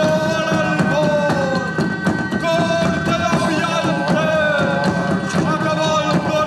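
Live band music: a held, gliding melody over drums and percussion.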